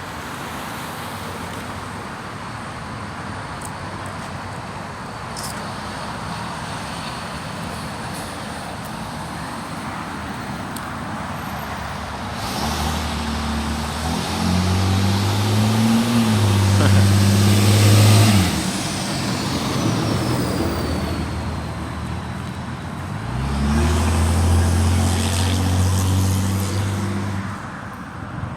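Road traffic: a steady noise of traffic, then two motor vehicles pass with a low engine drone that swells and fades, one about halfway through and another near the end.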